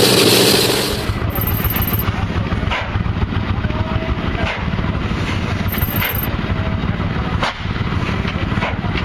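Large old engine running with a dense, fast low rumble, broken by sharp cracks about every one and a half seconds. A louder, hissing engine sound cuts off about a second in.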